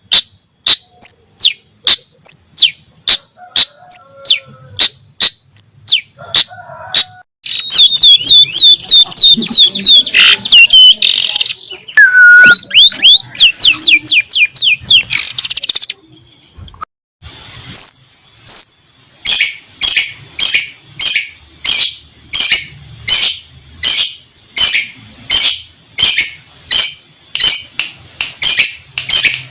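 Long-tailed shrike (cendet) singing loudly: sharp, high calls repeated about one to two times a second, broken in the middle by a dense run of rapid downward-sliding notes, then a short pause and the evenly repeated calls again. The song carries mimicked canary and lovebird phrases.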